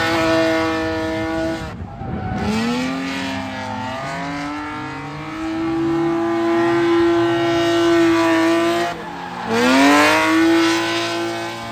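Drift car's engine held high in the revs on track, dropping off sharply about two seconds in and again about nine seconds in, each time climbing straight back up.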